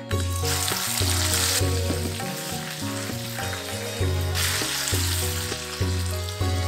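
Ginger paste frying in hot oil in a wok with tempering spices. The sizzle surges as the paste hits the oil about half a second in, eases, and surges again about four and a half seconds in.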